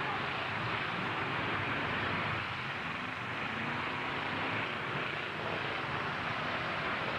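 Trucks' engines running in a demolition derby, heard as a steady, noisy din.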